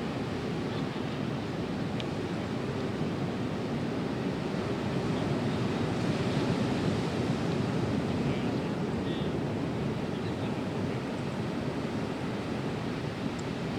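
Ocean surf breaking on a sandy beach, a steady rush of waves that swells a little in the middle.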